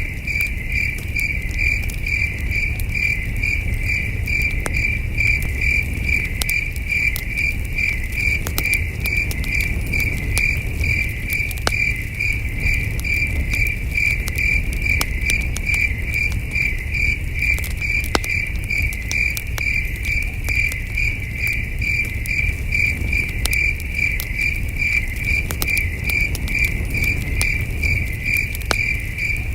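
Crickets chirping in a steady, evenly pulsed rhythm, over a campfire crackling with scattered sharp pops and a low steady rumble.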